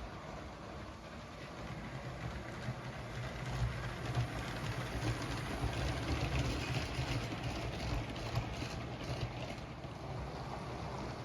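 LEGO train running on plastic track: a steady motor whir with the rattle of wheels and cars over the rails. It grows louder from about three seconds in as the train comes closer.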